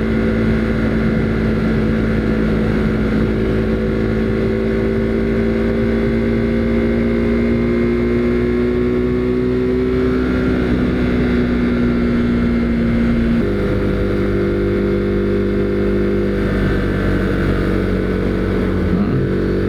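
Husqvarna Svartpilen 401's single-cylinder engine running under way. Its pitch climbs slowly as the bike gathers speed, then steps down suddenly about thirteen seconds in with a shift up a gear.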